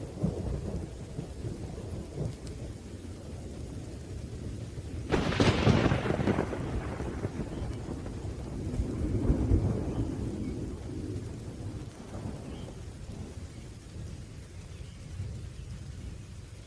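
Thunderstorm: steady rain under low rolling thunder, with one sharp thunderclap about five seconds in that rumbles away over several seconds.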